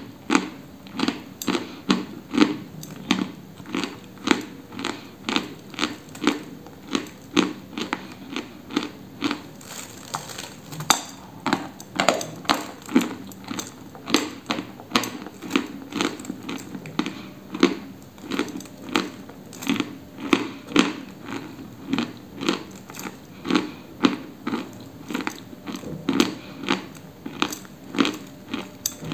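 A person biting and chewing a dry block of white chalk close to the microphone: a steady run of crisp crunches, just under two a second.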